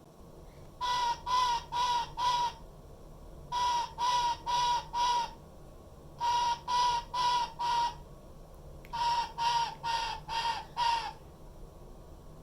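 Black-headed caique parrot giving loud, harsh, screechy calls in four quick runs of about four calls each, with short pauses between the runs.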